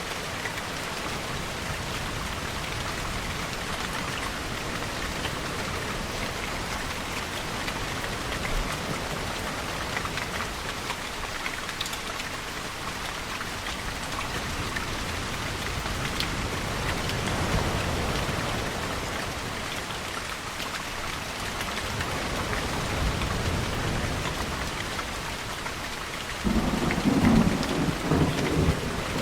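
Steady heavy rainfall in a thunderstorm, with a low rumble building and fading in the middle and a sudden louder roll of thunder near the end.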